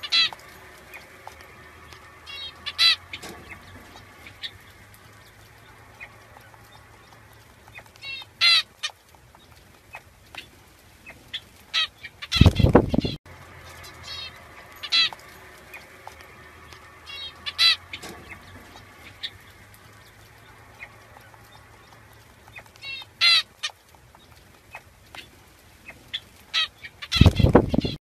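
Short bird calls every few seconds, with a loud low rush of noise about halfway through and again near the end. The same sequence repeats after about fifteen seconds.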